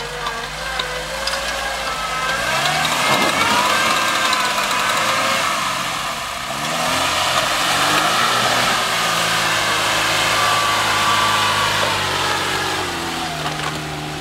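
Lada Niva's four-cylinder engine revving hard and unevenly, its pitch rising and falling again and again as the car churns through a deep mud rut. A wavering high whine runs above the engine note.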